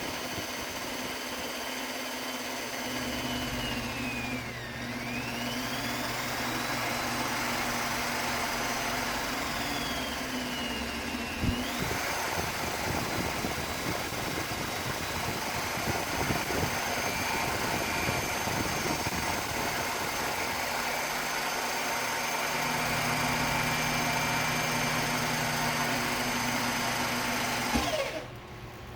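A small electric power tool's motor running steadily, its whine dipping in pitch and recovering twice as it bears on the work, then switched off about a second before the end.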